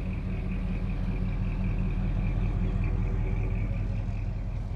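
A classic car's engine idling with a steady low rumble, swelling slightly in the middle.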